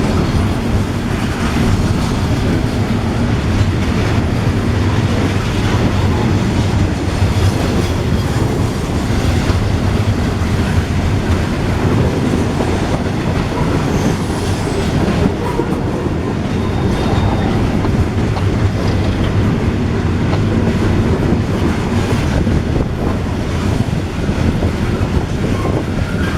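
Freight train cars rolling past close by: a loud, steady rumble with the clatter of wheels on the rails.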